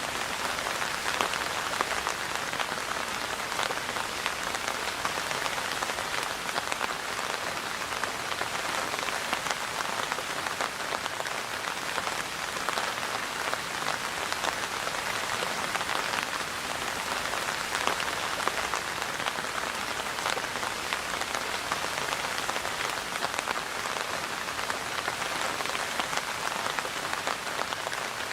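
Steady rain falling on a surface: a dense, even patter of many drops.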